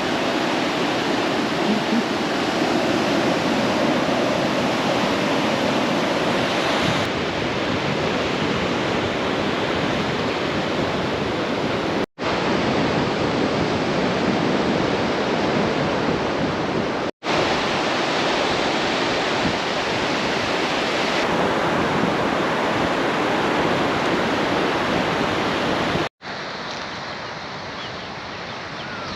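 Ocean surf washing on a beach: a steady, even rushing of waves that cuts out three times for a split second where the footage is cut.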